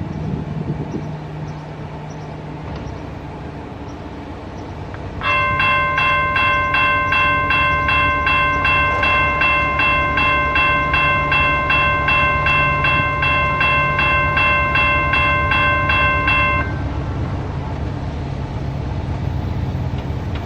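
CSX freight train rolling past with a steady low rumble. About five seconds in, a bell starts ringing loudly, about two and a half strikes a second at an unchanging pitch, and cuts off suddenly some eleven seconds later while the train keeps rolling.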